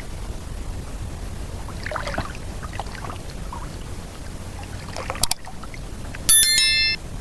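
Steady outdoor noise with a few faint knocks, then near the end a brief electronic chime of stepped high tones lasting under a second, the loudest sound here.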